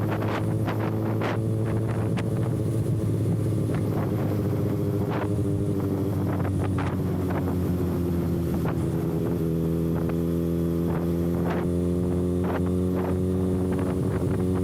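Kawasaki ZX-6R inline-four running with no exhaust canister, holding a nearly steady engine note that sags slightly and recovers around the middle. Wind buffets the microphone, with frequent short crackles.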